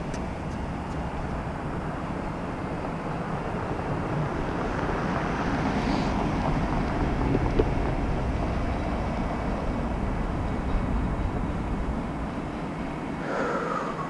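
Steady low rumble of a running vehicle with road noise, swelling slightly in the middle; a brief wavering higher tone comes in near the end.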